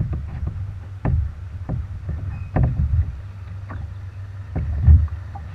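Kayak being paddled: paddle strokes splashing and knocking about once a second, the loudest near the end, over a steady low rumble of water and wind.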